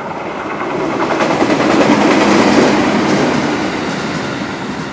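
A train passing along the track. The wheel noise grows louder to a peak about two and a half seconds in, then fades away.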